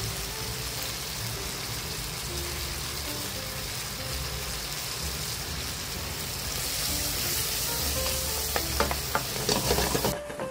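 Shrimp and mushrooms in butter-and-soy sauce sizzling and bubbling in a black pan over a gas burner, the sizzle growing a little louder about two-thirds through. Near the end a few knocks and scrapes come as the pan is tossed, and the sizzle drops off sharply as the pan leaves the heat.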